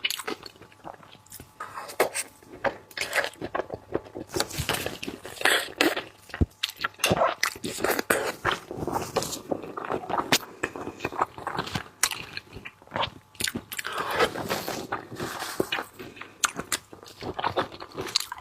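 Close-up mouth sounds of a person biting and chewing raw salmon, with many quick wet clicks and smacks in an irregular run.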